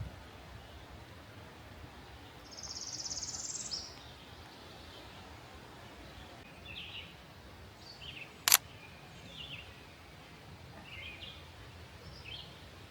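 Wild songbirds calling: a high buzzy trill lasting about a second, starting a couple of seconds in, then short scattered chirps. About eight and a half seconds in comes a single sharp click, the loudest sound.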